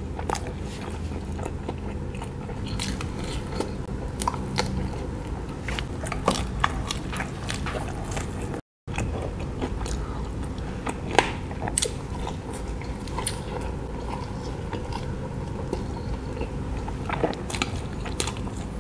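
Close-miked mouth sounds of a person biting and chewing cheese-stuffed pizza crust, with many short sharp clicks. The sound drops out to silence for a moment just under halfway through.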